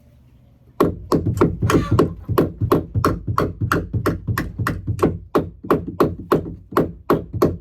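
Hammer driving nails into a wooden perch: a fast, even run of blows at about four a second, starting about a second in.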